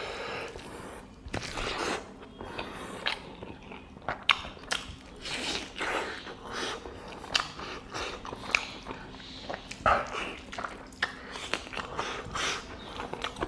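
Close-miked eating: a man bites and chews a curried chicken leg piece eaten with rice, with many irregular short mouth clicks and smacks.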